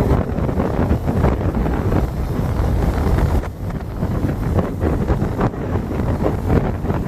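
Wind buffeting the microphone: a loud, low rushing rumble that swells and dips in gusts.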